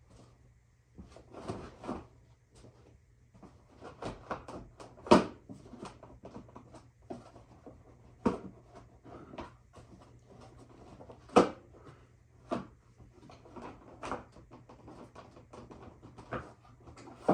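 Plastic bodywork and fittings of a Yamaha Banshee ATV being handled and worked loose by hand: irregular knocks, clatters and rattles, with a few sharper knocks.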